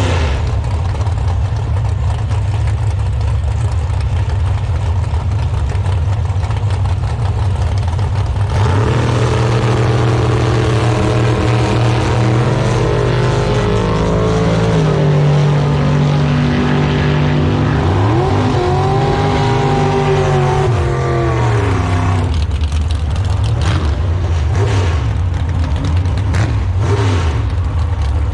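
Drag race car engines rumbling at idle, with one engine revving: its pitch climbs, holds, swings up and back down, then drops out about 22 seconds in.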